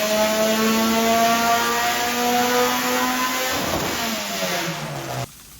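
K24-swapped Honda Civic race car's four-cylinder engine running hard at high revs, its pitch sagging slightly. From about three and a half seconds in, the revs fall away steadily. The sound cuts off suddenly shortly before the end.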